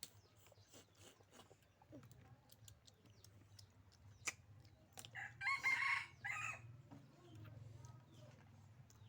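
A rooster crowing once, about five seconds in, the loudest sound here. Scattered small clicks and taps and a steady low hum sit beneath it.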